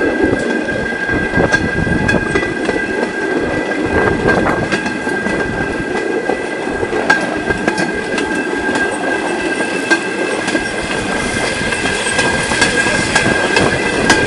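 Rail bike's steel wheels running fast along the track: a steady high tone from the wheels over a clattering rumble, with irregular sharp clicks from the rail joints.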